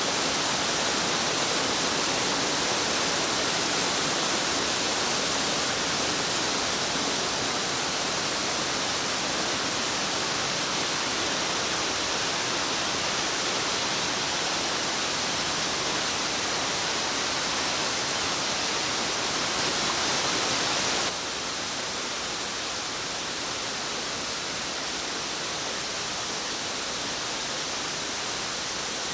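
A waterfall rushing steadily. About two-thirds of the way through it drops abruptly to a somewhat quieter, duller rush.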